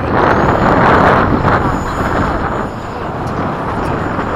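Radio-controlled 90 mm electric ducted-fan jet on its landing approach: a loud rushing sound, strongest in the first second and a half and easing after, with a thin, steady high whine from the fan. Wind buffets the microphone throughout.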